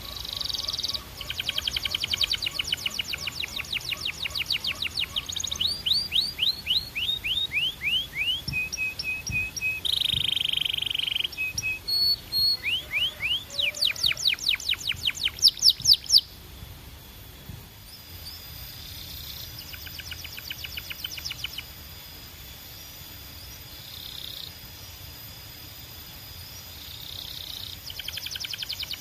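Belgian canary singing in fast trills of rapidly repeated high notes, some tours made of short falling notes. The song is loud for the first half, turns softer about two-thirds in, and picks up again at the very end.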